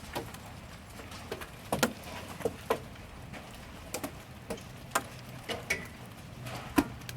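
Scattered hailstones pinging off hard surfaces: sharp, irregular clicks, about a dozen, some ringing briefly, over a faint steady hiss.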